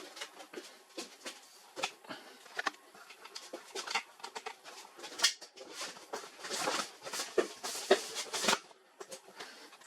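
Irregular clicks and knocks with short scraping and rustling, the sound of hands handling and working on the plastic and metal parts of an HP LaserJet printer during disassembly.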